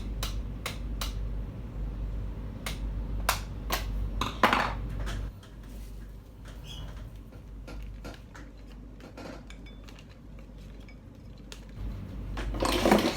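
Scattered metallic clinks and knocks, like tools or metal parts being handled, over a low steady hum, with a cluster of knocks about four seconds in and more near the end.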